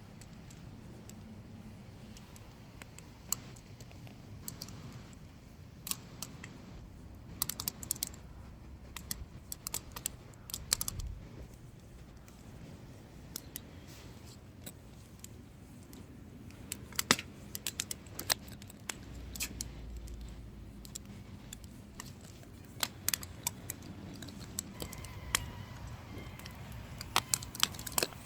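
Wood fire burning, crackling with irregular sharp snaps and pops over a low steady background noise.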